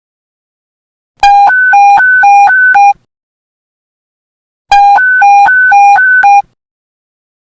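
Police radio panic-button alert tone: two bursts of fast alternating low and high beeps, each about a second and a half long, three and a half seconds apart.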